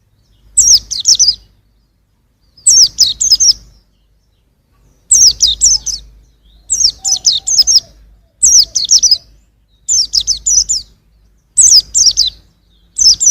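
Young white-eye (pleci) singing: about eight short bursts of quick, high, down-slurred chirps, one every second and a half or so.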